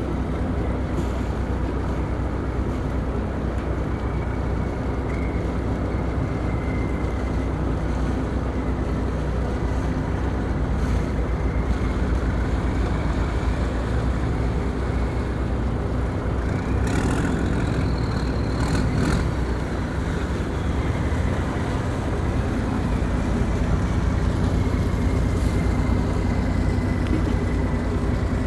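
Boat engine running steadily: a continuous low drone with a thin high whine above it. The whine climbs and falls away briefly about two-thirds of the way through.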